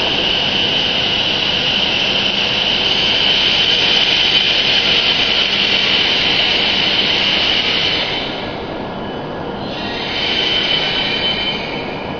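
Hokuriku Shinkansen E7/W7-series train pulling in along the platform and slowing to a stop: a steady rush of running noise with a high, steady whine. The sound drops about eight seconds in, and the whine returns briefly before fading as the train halts.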